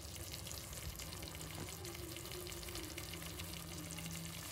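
Chicken masala frying in an open pressure cooker pot: a steady, faint sizzle with fine crackling.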